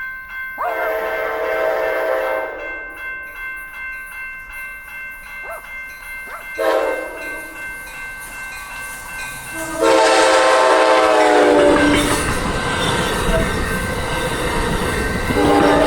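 Locomotive air horn sounding several blasts, two long, one short and another starting near the end, as a train approaches; about ten seconds in, the loud rumble of the train rolling past on the rails sets in and continues under the horn.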